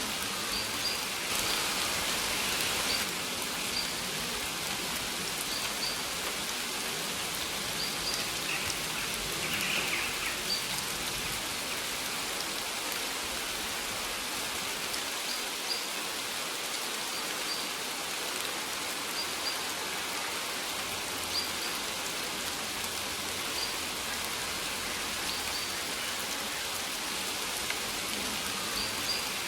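Steady rain falling and pattering on surfaces. A bird's short, high chirps repeat every second or two over it.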